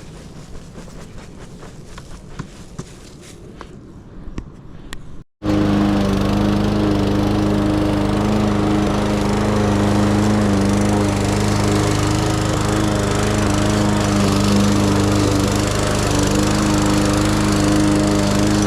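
A lawn mower's small engine running steadily, a loud even hum with a stable pitch. It starts abruptly about five seconds in; before that there is only a quieter rumble of wind on the microphone with scattered clicks.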